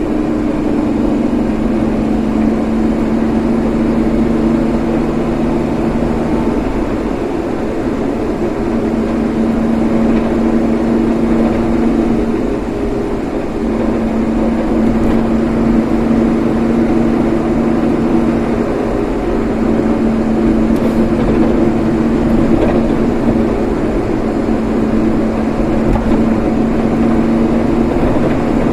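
Steady running noise of a car on the move: engine and road noise with a constant low drone.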